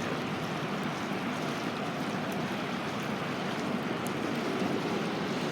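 Bonfire burning low to its embers: a steady rushing hiss with a few faint, sharp crackles and pops.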